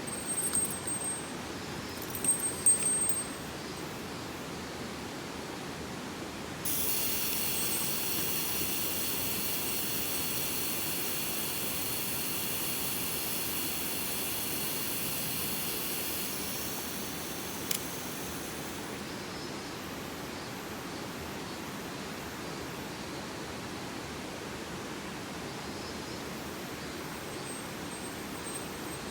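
Steady rush of a mountain stream, with a few brief knocks in the first three seconds. About seven seconds in, a high hiss comes in suddenly and fades away over the next ten seconds or so.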